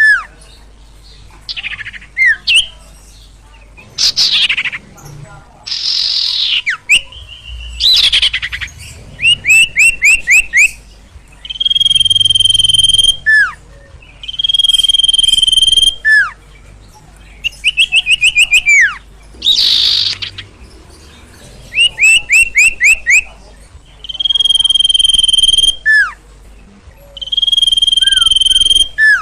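Sirtu (sirpo) songbird singing loudly and continuously. Its song repeats a long, steady whistle that ends in a quick falling note, alternating with fast runs of about six short falling notes and a few harsh, rasping calls.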